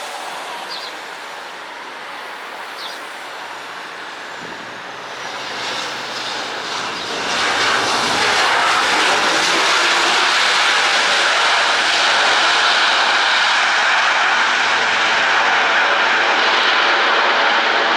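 Jet airliner engines, the CFM56 turbofans of a Boeing 737-900ER, running as the plane passes close by. The sound grows louder over about three seconds and then holds at a loud, steady level.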